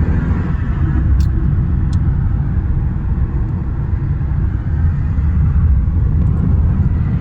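A car's engine running with a steady low rumble.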